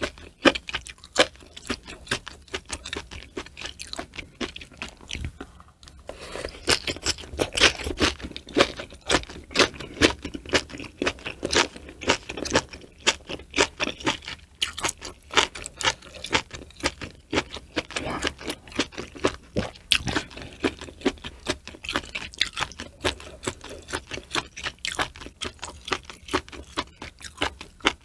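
Close-miked chewing and crunching of hot-pot food, sliced cooked cow udder and vegetables, as a dense run of quick wet clicks. There is a short lull about six seconds in.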